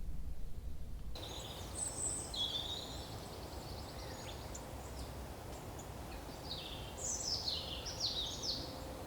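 Small woodland birds calling: short, high, downward-sliding notes in quick series, a few about two seconds in and a busier run near the end, over a steady low background rumble.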